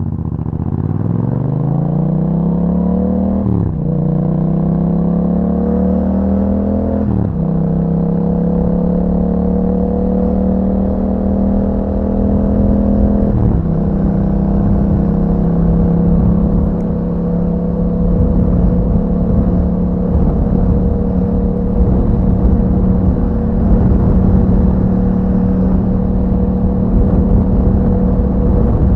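2021 Yamaha MT-07's 689 cc parallel-twin engine through an Akrapovic exhaust, accelerating with three quick upshifts about 3.5, 7 and 13.5 seconds in, the pitch rising in each gear and dropping at each shift, then holding a steady cruise.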